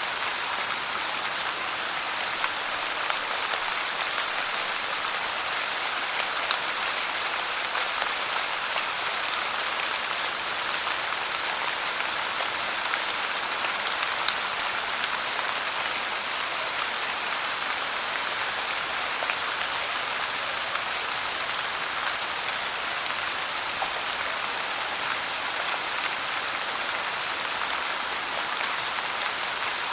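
Steady pouring rain: an even hiss with scattered small drop ticks.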